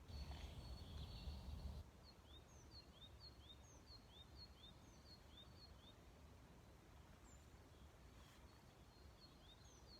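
A small songbird repeating a short, high chirp about two to three times a second, faint against quiet woodland background. A low rumble fills the first two seconds, then stops.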